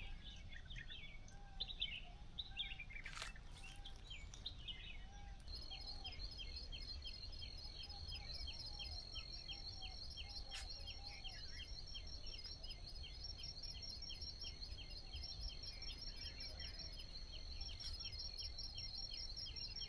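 Songbirds chirping repeatedly over a low background rumble. About five seconds in, a steady high-pitched rapid trill sets in and keeps going.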